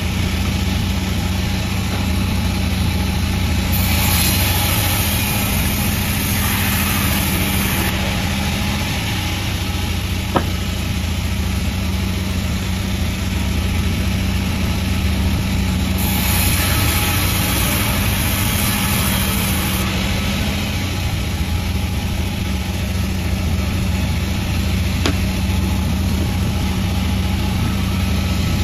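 Panda36 sawmill running steadily with a deep engine hum, and two stretches of a few seconds each of louder high hiss as the blade cuts through the jackfruit log. One sharp click about ten seconds in.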